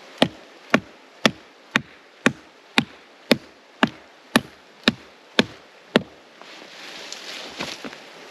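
About a dozen sharp, evenly spaced blows from a striking tool, roughly two a second, stopping about six seconds in.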